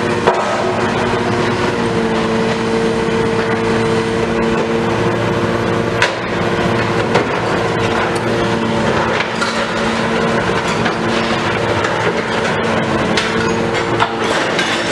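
Demolition machinery at work: a diesel engine running steadily under a constant crunching and splintering of breaking building material, with a few sharp cracks standing out.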